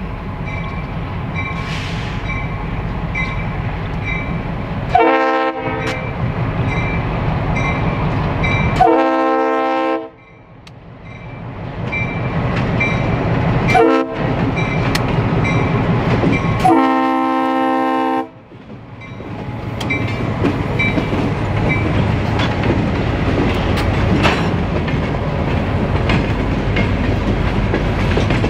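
Diesel freight locomotives approach and pass, engines rumbling, with four horn blasts for the grade crossing: the third is short and the last the longest, the standard crossing signal. Hopper cars then roll past with a steady clickety-clack of wheels over rail joints.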